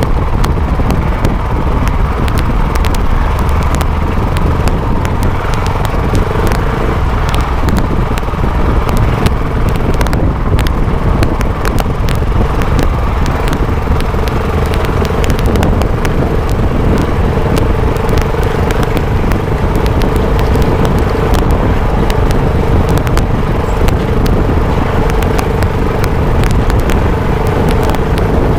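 Dirt bike engine running at a steady cruising speed, heard from a camera mounted on the bike, with a heavy wind rumble on the microphone and frequent small clicks.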